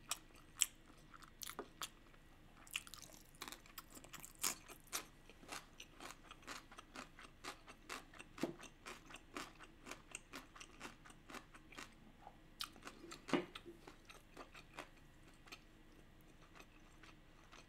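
A person chewing crunchy yellow pickled radish slices: a run of small crisp crunches and chewing clicks, a few of them louder, thinning out near the end.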